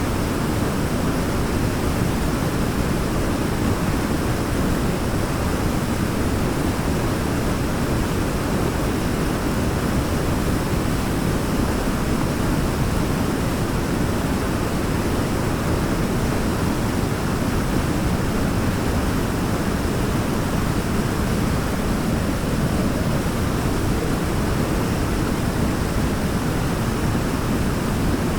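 Waterfall: a steady, unbroken rush of falling water, deepest in the low range, with nothing standing out from it.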